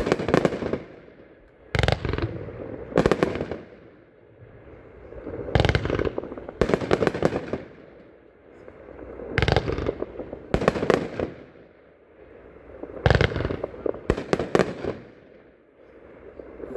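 A 25-shot consumer fireworks cake firing: sharp bangs every one to three seconds, some in quick clusters of two or three, each followed by crackling.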